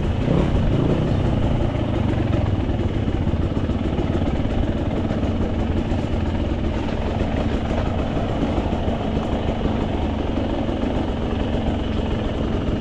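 Dirt bike engine idling steadily, with no revving.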